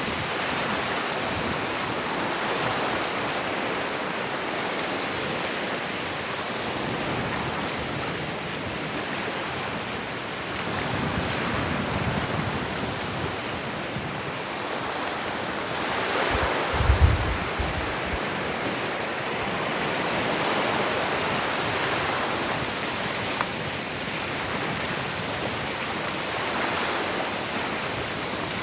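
Ocean surf washing onto a sandy beach, a steady rush that swells and eases every few seconds. A brief low thump comes about two-thirds of the way through.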